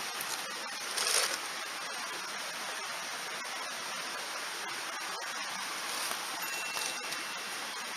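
Mountain stream rushing over rocks, a steady close wash of water noise that swells briefly about a second in.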